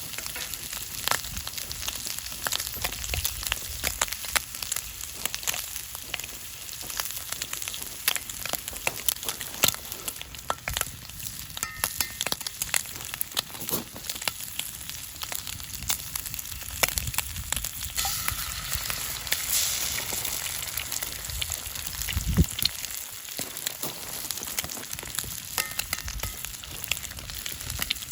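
Food sizzling in olive oil in a pan over a wood campfire, a steady hiss with many small pops and spits throughout.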